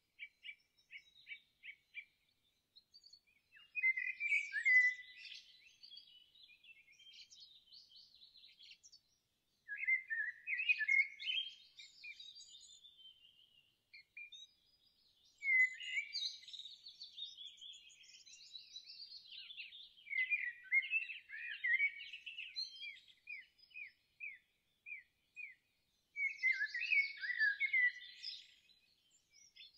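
Songbirds singing: bursts of warbled song phrases, quick chirps and trills every few seconds, including a fast run of short repeated notes near the start and a rapid series of quick downward notes a little past the middle.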